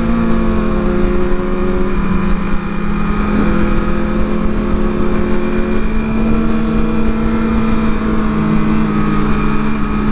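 Inline-four sport motorcycle engine running while riding, heard from on the bike, its note mostly steady with small shifts in pitch several times as the throttle changes. Wind noise rumbles underneath.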